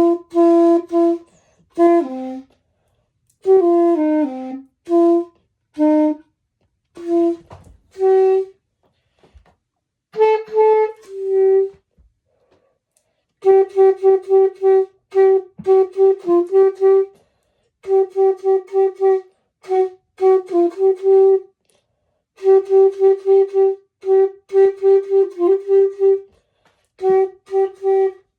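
Solo clarinet playing a melody in short phrases with brief pauses, some falling in pitch. From about halfway it changes to groups of quick repeated notes on nearly one pitch, about three a second.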